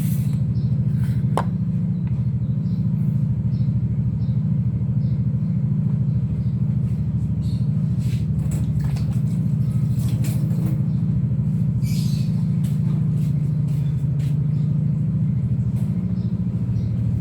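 A steady low mechanical hum, with scattered light clicks and knocks over it.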